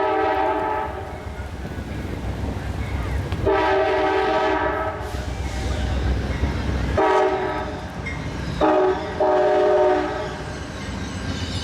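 Nathan K5LA chime horn on an Amtrak GE P42 locomotive sounding a series of blasts: one as it begins, a long blast a few seconds in, then shorter blasts near the end, over the low rumble of the approaching train.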